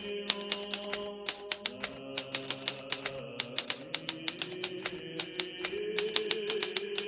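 Hermes Baby portable typewriter typing in quick, irregular keystrokes, over soft background music of slow, held tones.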